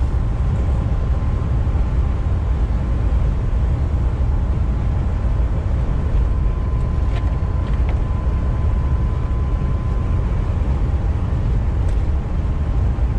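Steady low rumble of a semi-truck's engine and tyres heard from inside the cab while driving. A faint steady whine runs under it, and a couple of light clicks come about seven seconds in.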